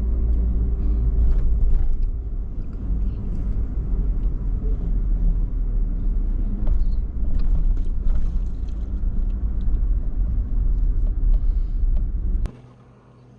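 Steady low rumble of a car driving, which cuts off abruptly near the end.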